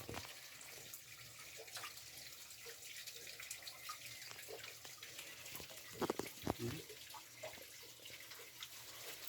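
Faint trickle of spring water running among rocks, with scattered small drips and two sharper clicks about six seconds in.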